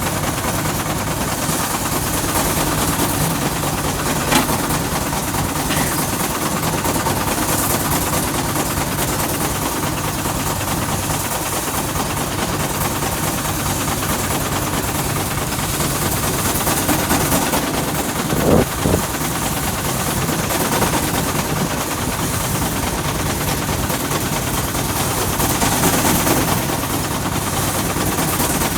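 Threshing machine running steadily together with the engine powering it: a loud, dense mechanical clatter with a fast low pulsing beat. One brief louder burst comes about two-thirds of the way through.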